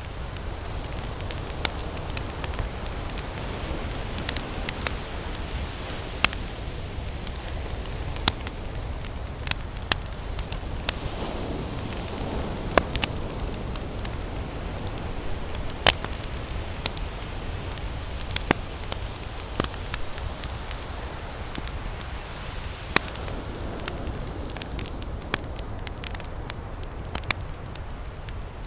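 Wood campfire crackling, with sharp irregular pops over a steady low rush.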